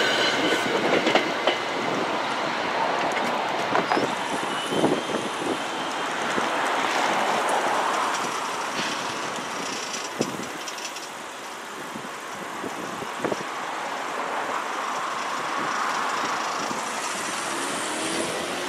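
NJ Transit commuter train rolling away past a grade crossing, its wheels clicking over the rail joints. Then cars drive across the crossing, with a few sharp knocks as their tyres cross the rails.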